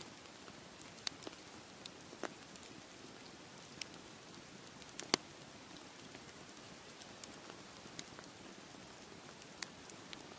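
Campfire crackling, with sharp pops scattered irregularly (the loudest about five seconds in), over a steady wash of sea waves.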